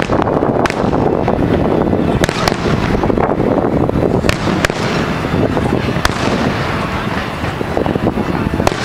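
Fireworks display going off: a continuous din of shell bursts and crackle, with sharp bangs standing out every second or two.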